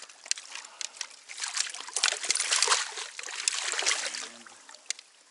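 Water splashing and sloshing as a large brown trout thrashes in a landing net at the surface. The splashing is loudest in the middle and dies away near the end.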